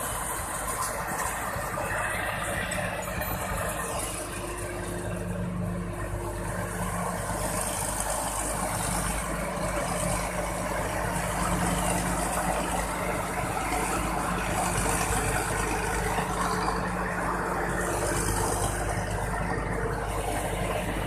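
Combine harvester's diesel engine running steadily, a constant pitched hum over the clatter of the machine.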